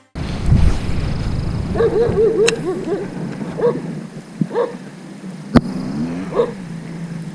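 A dog yipping in short repeated yelps, with a low rumble in the first second and a few sharp clicks.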